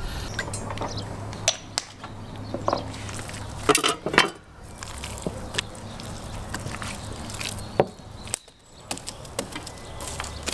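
Scattered clicks, knocks and clinks of utensils and dishes being handled, with a dense cluster of knocks about four seconds in.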